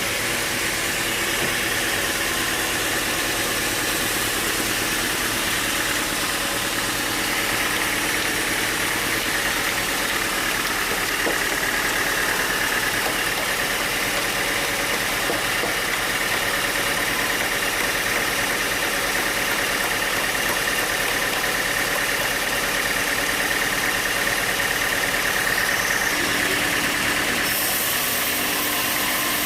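Sawmill machinery running steadily with a continuous mechanical drone; its tone shifts slightly near the end.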